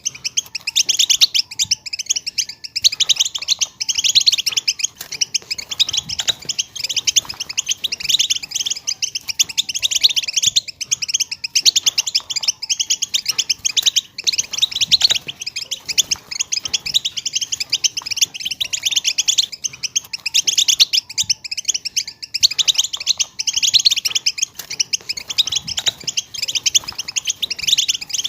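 A group of female European goldfinches giving their twittering contact calls: many quick, high chirps overlapping in a dense, unbroken chatter.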